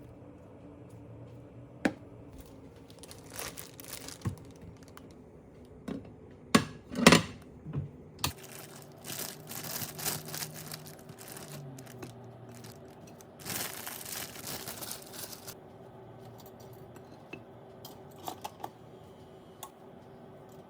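Kitchen food-preparation handling sounds: scattered clicks and knocks, a few sharper strikes, and crinkling of packaging, with a rush of noise lasting about two seconds a little past halfway.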